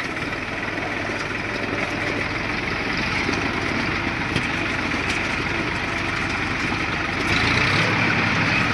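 Deutz-Fahr tractor's diesel engine running steadily, getting louder about seven seconds in.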